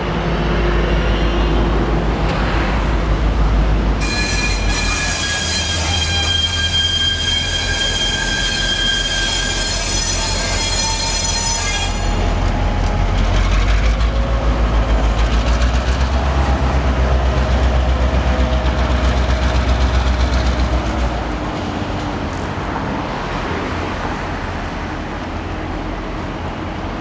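Train wheels squealing loudly on curved rail for about eight seconds, from about four seconds in, over a steady low rumble of rail vehicles running. The rumble carries on and eases off a little near the end.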